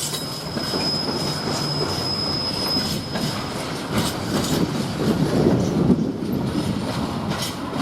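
Container freight train wagons rolling past, wheels clicking over the rail joints. A high, steady wheel squeal runs through the first three seconds or so and then fades out.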